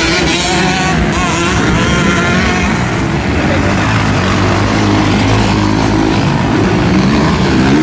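Motocross motorcycle engines running and revving on the track, their pitch rising and falling as the bikes race.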